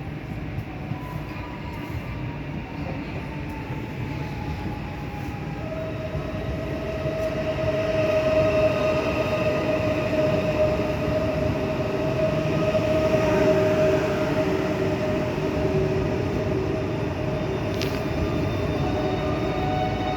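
Electric train running through a station, getting louder over the first several seconds, with a steady motor whine that drops to a lower pitch in a sudden step after about five seconds.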